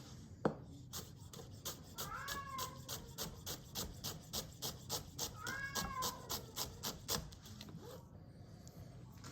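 A cat meows twice while a Global G2 gyuto chef's knife cuts through carrot onto a cutting board in a steady rhythm of about three strokes a second. The cutting stops near the end.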